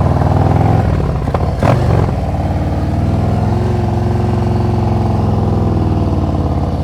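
Motorcycle engine running steadily with the throttle held slightly open, preloaded while the clutch is eased out in the friction zone to pull away uphill. A short clatter comes between one and two seconds in.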